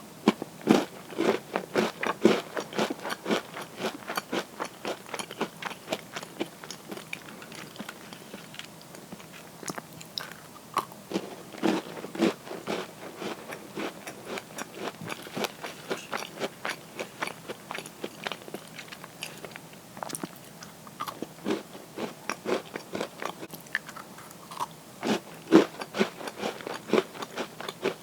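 Close-up crunching and chewing of crisp butter cookies: rapid, irregular crackling bites, with louder bursts of crunching about a second in, around the middle and near the end.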